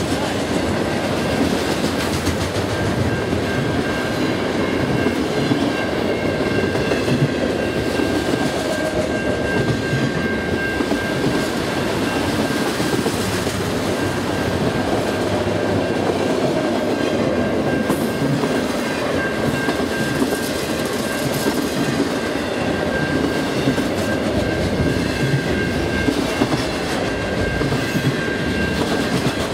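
Freight train's multilevel autorack cars rolling past close by: a steady, loud rumble and clatter of steel wheels on the rails, with a thin high whine running through it.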